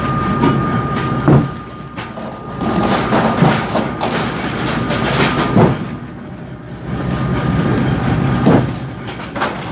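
Squid-jigging boat's machinery running with a steady low hum, with a heavy clunk every two to three seconds.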